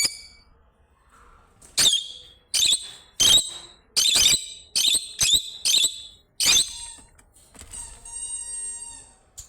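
A bird calling with short, sharp, high-pitched squeaky calls, about nine in irregular succession, then one longer steady whistled note near the end.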